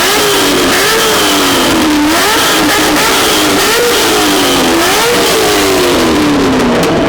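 Corvette V8 with an aftermarket exhaust revved hard about six times in a row, each rev climbing quickly and dropping back before the next. The exhaust is loud.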